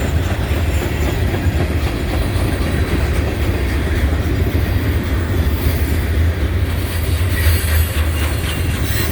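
Long freight train's cars rolling past close by, a steady, continuous noise of steel wheels on the rails.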